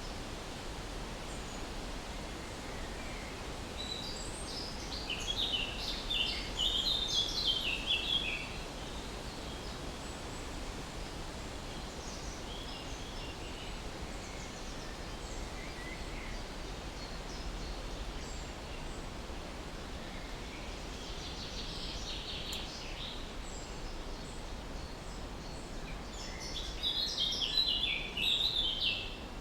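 Songbirds singing in bouts of rapid, high twittering, loudest a few seconds in, again in the middle, and near the end, over a steady background hiss.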